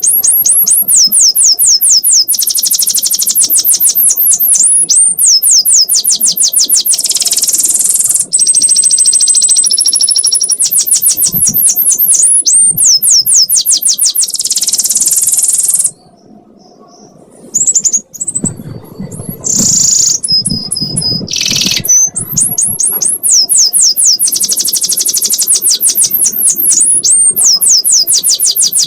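Domestic canary singing a long 'ngekek' song: fast runs of rapidly repeated high, sweeping notes. The song breaks off about sixteen seconds in, gives way to a few seconds of different, lower notes, then resumes.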